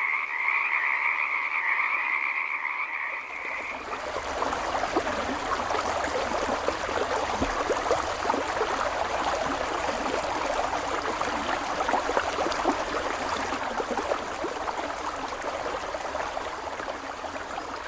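Chorus of frogs calling: a steady, high trill for the first few seconds, then from about four seconds in a denser, crackling mass of calls.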